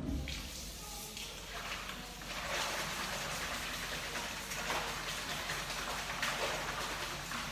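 Rain falling steadily, the patter thickening about two seconds in and then swelling and easing in waves.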